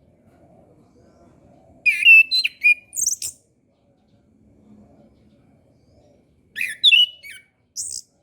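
Chestnut-capped thrush (anis kembang) singing: two short phrases of quick chirps and whistled notes, jumping in pitch, with a very high note at the end of each, about two seconds in and again near the end.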